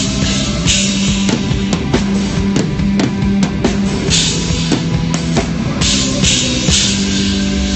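Rock band playing live, with drum kit hits on a steady beat, cymbal crashes, and held bass and guitar notes underneath.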